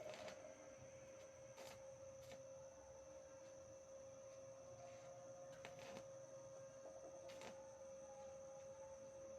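Near silence with a faint, steady hum at one pitch and a few light clicks.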